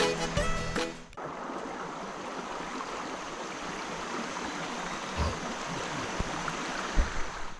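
Background music for about the first second, then it cuts off to the steady rush of a flowing mountain stream, with a couple of brief low knocks.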